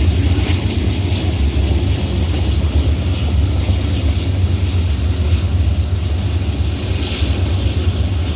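Long Norfolk Southern manifest freight train passing close by, a loud steady low rumble without a break.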